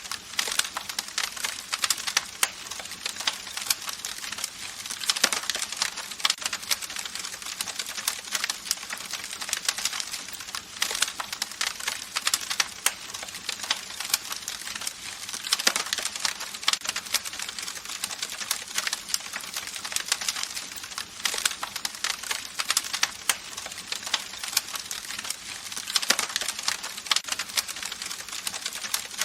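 Campfire crackling: a dense run of small snaps and pops over a soft hiss of burning wood, with a few louder pops now and then.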